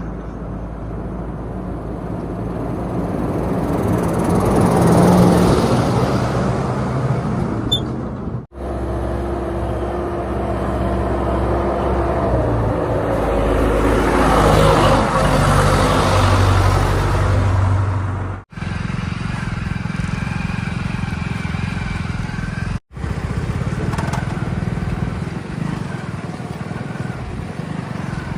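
Motor vehicle engines running, swelling louder and fading twice, broken by three abrupt cuts between spliced clips.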